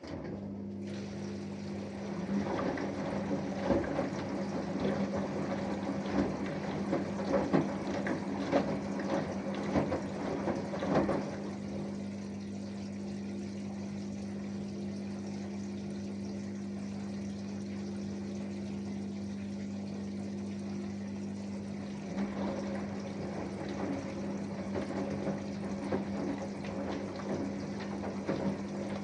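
Samsung Eco Bubble washing machine's pump humming steadily while water rushes and gurgles through it, the splashing heavier in the first ten seconds and again near the end.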